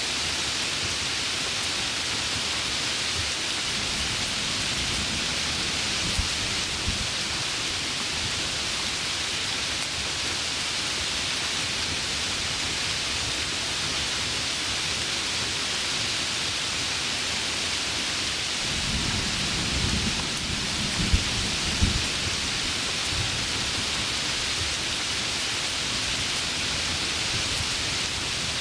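Heavy rain falling steadily, with thunder. There is a low rumble and two sharp cracks about five to seven seconds in, and a louder rumble with sharp cracks around twenty seconds in.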